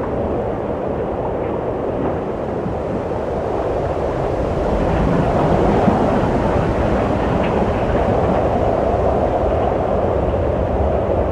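Wind blowing steadily: a low rushing noise that swells a little about halfway through.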